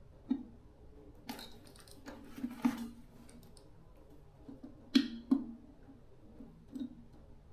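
Scattered light clicks and knocks of hand tools and parts being handled, irregular and a second or so apart, the sharpest about five seconds in.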